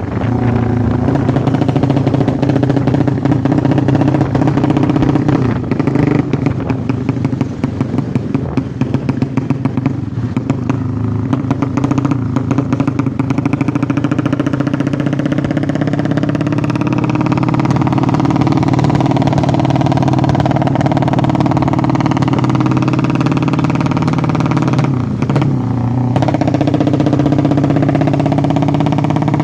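Motorcycle drag-racing engine running steadily during its running-in, a fast even firing beat with slight rises and falls in speed; its speed dips briefly about 25 seconds in, then comes back.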